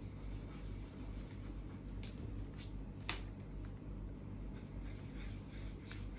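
Faint scratching of coloring on a paper airplane, with a sharp click about three seconds in, over a steady low hum.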